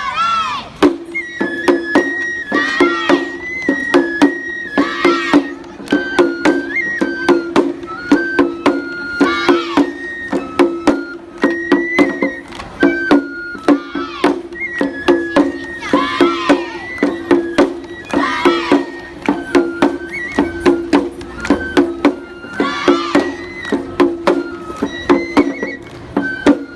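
Japanese lion-dance (shishimai) festival music: a high melody moving in steps over a steady low drone, punctuated by many sharp percussion strikes.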